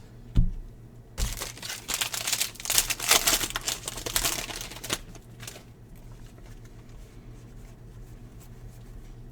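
Wrapper of a baseball-card pack being torn open and crinkled for about four seconds, after a soft thump near the start.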